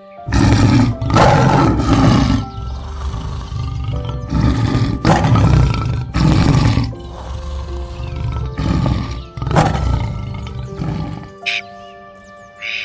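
A large animal roaring in a series of loud, rough calls, about nine in all, that stop about 11 seconds in, over steady background music.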